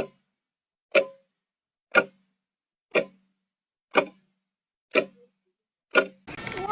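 Clock ticking: seven sharp ticks, one each second, with silence between them.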